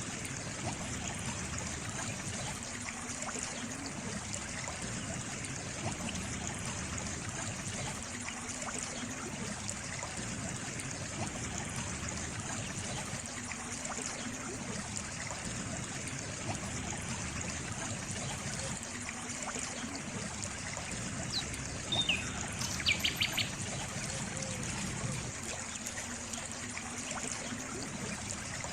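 Steady trickling of a stream, an even rushing hiss. About three-quarters of the way through, a bird gives a brief high call: a couple of chirps, then a quick trill.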